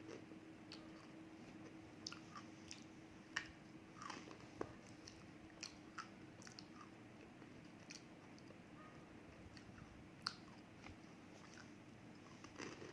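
Close-miked biting and chewing of roasted edible clay: dry, sharp crunches and clicks at irregular intervals, loudest a little over three seconds in and again about ten seconds in, over a faint steady hum.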